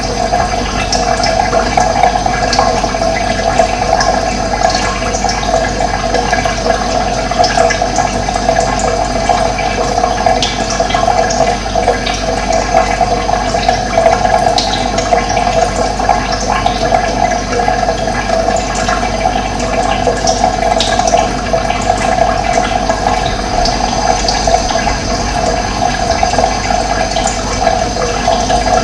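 Running water flowing steadily, a continuous rushing sound, with scattered brief high chirps of birds over it.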